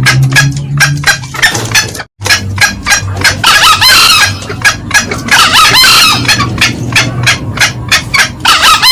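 Green junglefowl lure-call recording: a fast run of short cackling notes, about four or five a second, thickening into a dense stretch of calls in the middle, with a brief cut-out about two seconds in.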